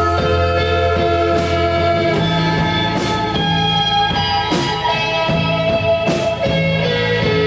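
Live rock band playing an instrumental passage with electric guitar and bass, and cymbal hits about every second and a half.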